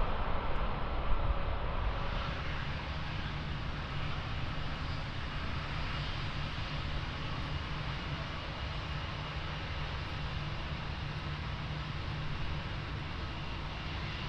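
Steady jet airliner engine noise, which follows an abrupt change from a louder passage about two seconds in.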